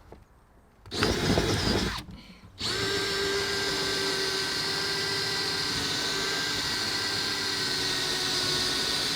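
Power drill boring a hole up through the ceiling toward the roof tiles, the first opening for a wood stove's flue pipe. A short loud burst comes about a second in, then a brief pause, then the drill runs steadily at one pitch.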